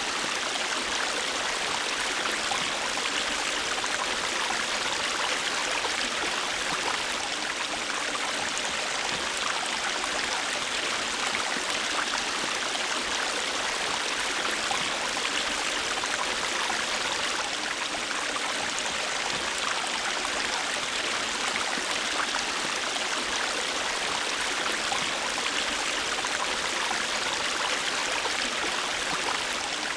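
River water flowing steadily over rocks, a constant rushing and babbling with no pauses.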